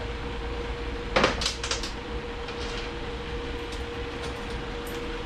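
Metal bolts clinking together a few times about a second in, over a steady background hum with a faint constant tone.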